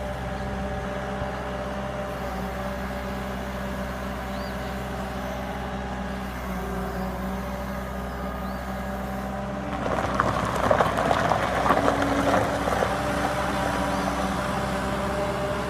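Skid steer loader's engine running steadily; about ten seconds in a louder burst of rattling and scraping lasts a few seconds before it settles back to a steady run.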